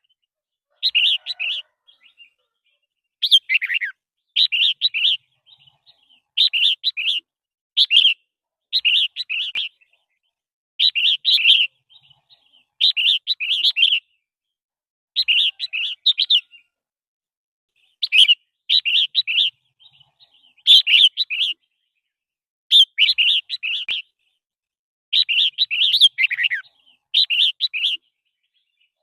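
Red-whiskered bulbul (chào mào) singing: short warbled phrases, each under a second, repeated every one to two seconds with brief silent gaps between.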